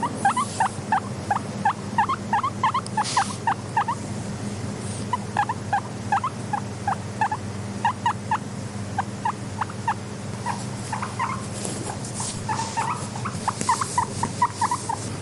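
Guinea pigs making rapid runs of short squeaks, about five a second, broken by brief pauses, over a steady low hum.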